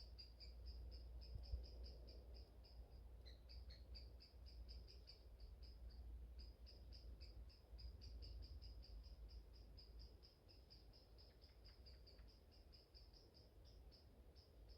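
Faint, rapid high-pitched chirping, a steady train of short notes at about four a second that breaks off briefly twice, over a low rumble of wind.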